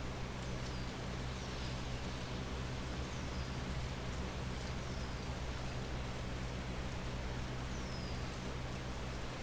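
Steady rain falling, with scattered sharp drop hits. A few short, high, falling chirps come through the rain several times, over a faint steady low hum.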